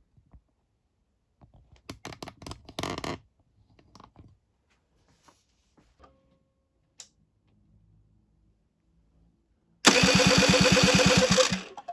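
Electric starter motor of a Generic Trigger SM 50cc cranking the engine for under two seconds near the end, with a fast even pulsing. The engine does not catch; this is a spark check, and the starter turns over even with the ignition key off. Before that, a few light clicks and rattles from handling.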